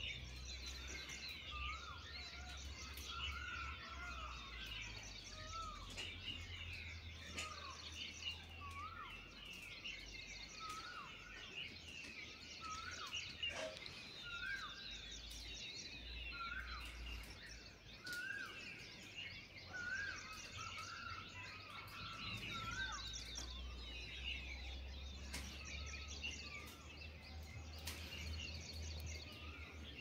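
Birds calling in a dense chorus of high twittering and chirps, with one bird repeating a short hooked note roughly once a second.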